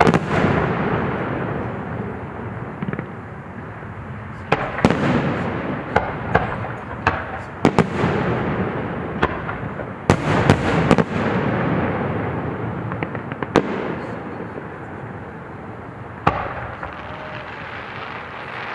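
Aerial fireworks shells bursting at a display: repeated sharp bangs, some in quick runs of crackling pops, each trailing off into a long rolling rumble.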